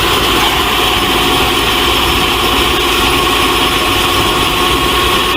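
Tow truck engine idling, a loud, steady sound effect.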